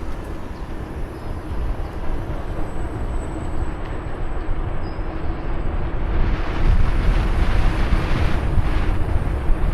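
Wind buffeting the microphone and the rolling rumble of a bicycle ride, a continuous low rumble under a faint steady hum, swelling into a louder hiss from about six seconds in.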